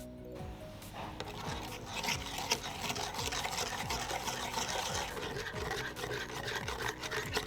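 Stirring the hot chocolate mixture: a steady scratchy rubbing through liquid that starts about a second in. Background music with a steady beat plays underneath.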